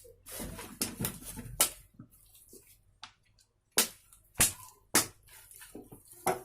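Chicken leg pieces being mixed by hand in a damp flour-and-egg coating in a bowl: wet squelching over the first couple of seconds, then a few sharp slaps or clicks.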